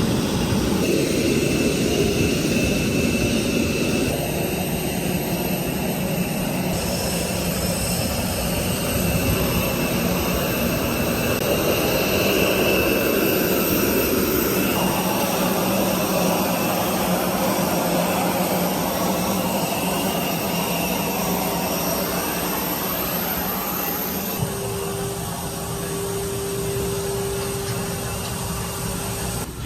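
Steady jet aircraft noise: a continuous rushing hum with faint high whines. A low steady tone comes in about 24 seconds in and holds.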